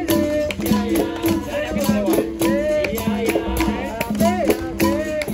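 Capoeira roda music: berimbaus struck in a steady repeating rhythm with the swelling wah of the gourd, and the dry shake of a caxixi rattle on the strokes.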